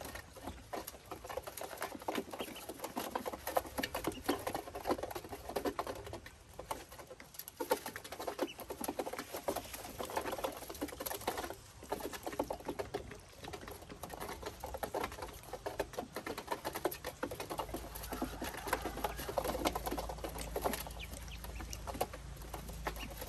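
Ducklings moving and pecking about: a rapid, uneven patter of small taps and rustles, with a low steady hum joining about three-quarters of the way through.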